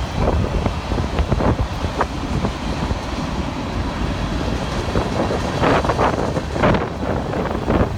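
Low, steady rumble of a passing train, with wind gusting on the microphone, strongest in the second half.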